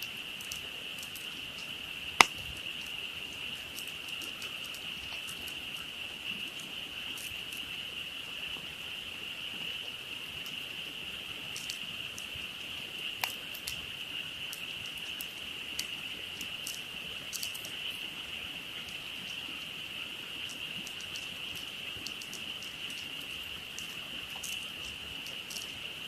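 A dense chorus of frogs calling as one steady, high, unbroken trill, with a campfire crackling and popping now and then over it; the sharpest pop comes about two seconds in.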